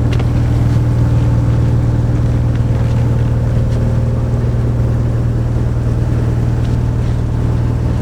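Steady low drone of an engine running at a constant speed, unchanging throughout.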